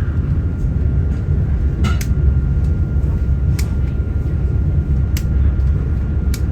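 Airliner cabin noise heard from inside: a steady low rumble of the jet engines and airflow, with a faint steady tone and a few light clicks.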